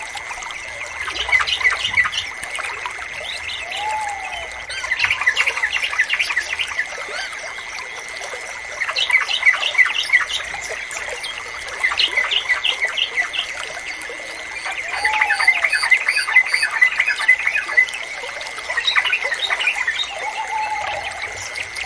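Yellow-vented bulbuls (trucukan) calling in quick chattering bouts every three to four seconds, with a few lower arched whistles between them. A steady high tone and faint trickling water run underneath.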